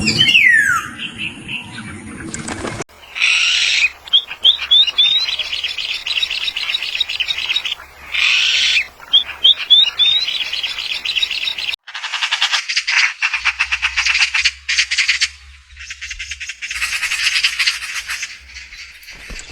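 Birds chirping and calling, in several clips cut together: a falling whistled call at the start, then runs of quick repeated chirps broken by two louder harsh calls, then dense, rapid twittering in the last part.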